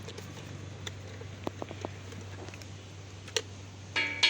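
A few light, scattered knocks and taps of work on the site over a steady low hum; near the end a loud ringing, pitched sound starts.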